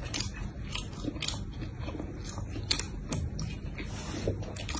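A mouthful of shrimp-and-chicken burger being chewed: irregular soft crunches and wet mouth clicks, a couple each second.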